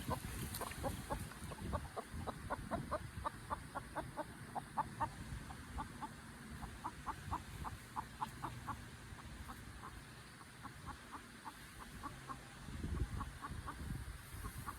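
Chickens clucking: a run of short, quick clucks, several a second, thinning out for a few seconds past the middle, over a low rumble.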